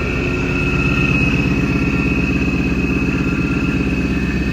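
The supercharged 5.0 V8 of a 2016 Ford Mustang GT running steadily just after restarting, with an even rapid low pulsing. A steady high whine sounds over it.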